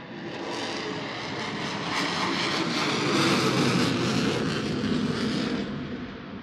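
Sukhoi Su-35 twin-engine fighter jet passing during its flying display: the jet noise swells to its loudest about halfway through, then fades away near the end.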